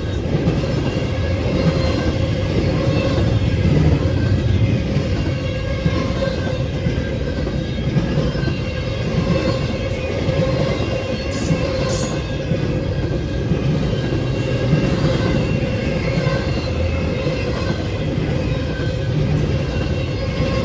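A train passing on the track, a steady continuous noise of the moving train with a constant tone running through it.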